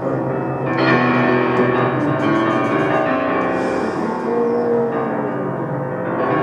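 A band playing live: layered sustained instrumental tones that swell about a second in, with light ticking percussion for a few seconds.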